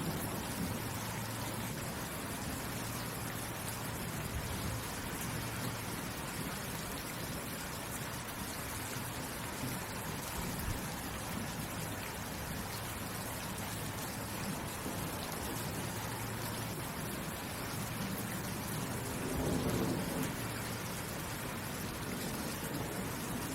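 Steady rain falling. About twenty seconds in there is a brief low rumble that rises above the rain.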